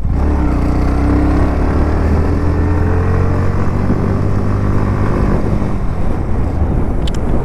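Motorcycle engine pulling away, its pitch rising gently over the first few seconds and then holding steady at cruise. Wind rushes over the helmet-mounted microphone.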